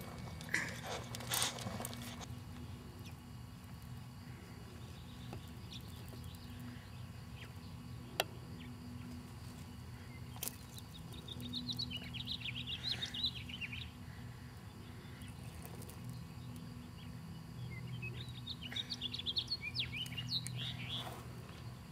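Birds chirping in two spells of quick high notes over a steady low hum, with a few sharp clicks and knocks, the loudest near the start.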